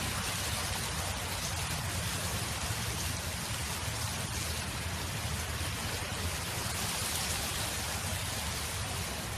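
Wind blowing steadily across an open field: a continuous even rush with a low rumble underneath.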